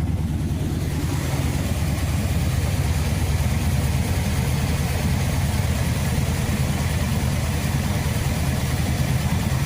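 The engine of a 1976 Chevrolet Bonanza truck running steadily at an even, unchanging speed, with a low, rapidly pulsing hum.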